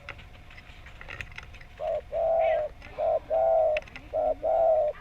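Spotted dove (tekukur) cooing: three two-part coos, each a short note followed by a longer held one, starting about two seconds in.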